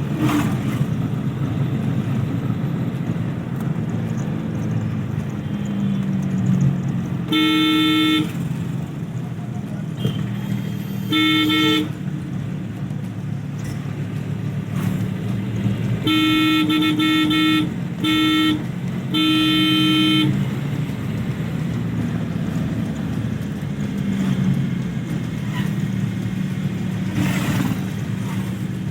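A car horn honking in bursts: once about seven seconds in, again about eleven seconds in, then a quick run of toots between about sixteen and twenty seconds. Underneath is the steady hum of the car's engine and road noise.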